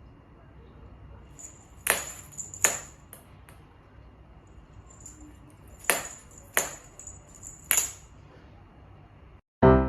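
A handful of sharp, light clinks or taps at uneven intervals, each with a brief high ring, over a faint steady background. A piano tune begins near the end.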